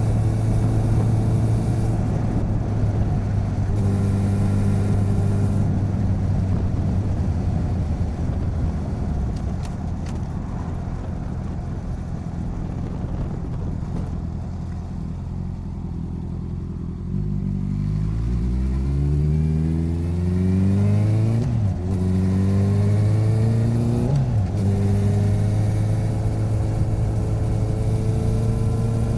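Motorcycle engine running at a steady cruise, easing off for several seconds, then accelerating with its pitch rising through two gear changes before settling back to a steady cruise.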